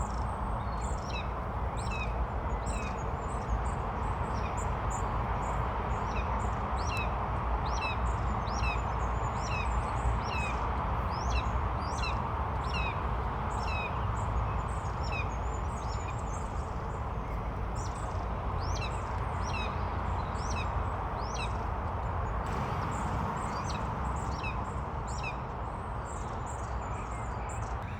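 Birds chirping: a string of short, high calls, each falling quickly in pitch, about one or two a second and sparser near the end, over a steady background hiss and low rumble.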